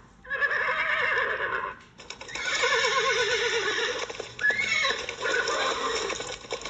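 Horse whinnying: two long quavering neighs, then a higher call that rises and falls, with further neighing after it.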